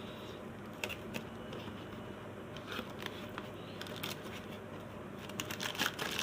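A cardboard product box being opened by hand: a few faint clicks and light rustles of the flaps and packing, more of them near the end, over a steady low room hum.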